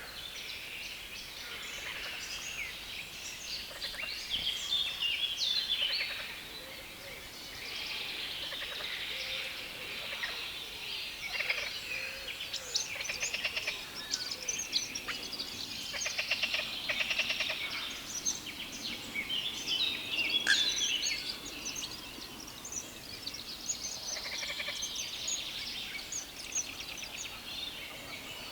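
Songbirds singing together from a reedbed: a dense, scratchy chorus of fast chattering and repeated notes, over a steady background hiss.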